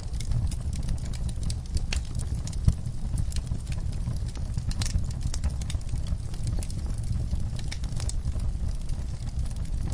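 Wood fire burning in a fireplace, crackling with frequent small pops over a steady low rumble, and one sharper pop a little under three seconds in.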